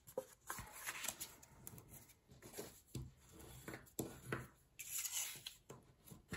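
Paper being cut and handled: scattered short snips, rustles and small clicks.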